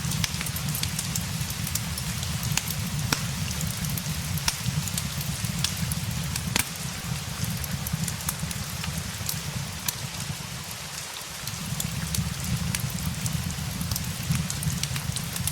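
Steady rain mixed with a crackling log fire, sharp pops and snaps scattered irregularly through the rain.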